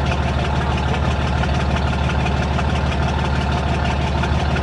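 Large engine running steadily at an even, low idle.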